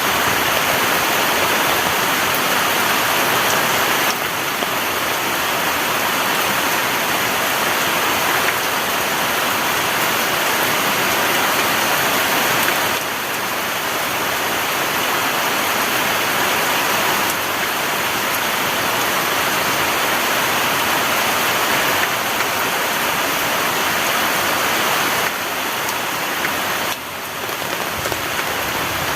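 Heavy rain pouring steadily, a dense even hiss, with small sudden shifts in level every few seconds.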